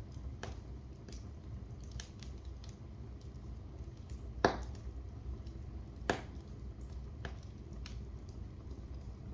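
Wood fire burning in a fireplace, with a steady low rumble and scattered crackles. Two louder pops come about halfway through, about a second and a half apart.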